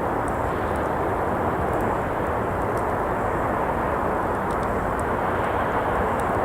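Steady rushing noise of traffic on a nearby road, with a few faint, scattered crackles from a campfire.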